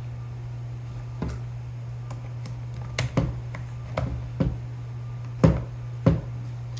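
Hand work on an airsoft gun's parts: a series of about seven sharp clicks and taps, irregularly spaced and loudest past the middle, over a steady low hum.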